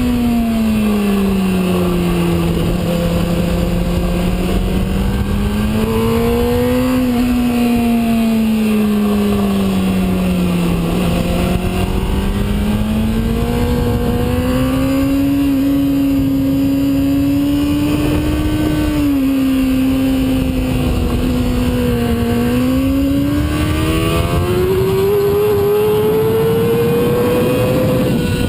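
Sport bike engine running hard around a racetrack. Its pitch swells and sinks slowly several times as the rider accelerates and slows through the corners, over a steady rush of wind noise.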